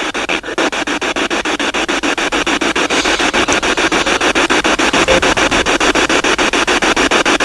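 Spirit box, a radio scanning rapidly through stations, sweeping: a steady hiss of static chopped into short, even pulses many times a second.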